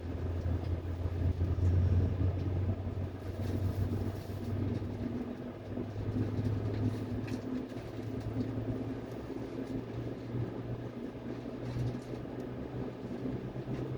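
Seoul Subway Line 8 train running between stations, heard from on board: a steady low rumble of wheels and running gear, with a faint hum that comes in for a few seconds in the middle.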